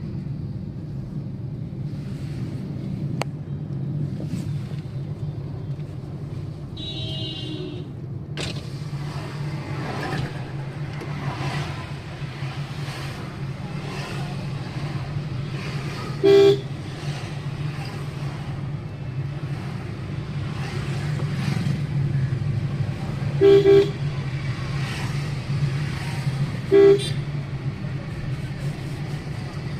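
Traffic jam: a steady low rumble of idling engines, with a vehicle horn honking three short times in the second half, the middle one a quick double toot.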